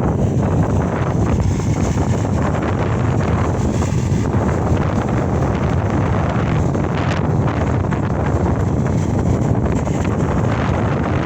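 Case SR200 skid steer's diesel engine running steadily, a constant low rumble, with wind buffeting the microphone.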